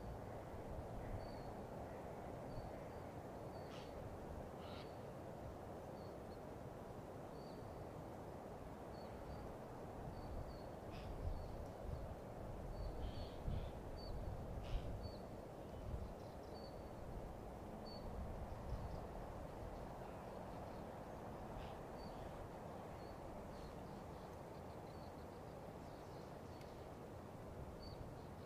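Songbird singing: short high notes repeated roughly once a second over a steady low rumble, with a few faint clicks.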